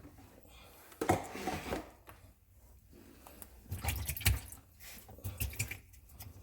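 Sink drain parts being handled and fitted back together: scattered knocks, clicks and scrapes in short clusters, with a little water noise.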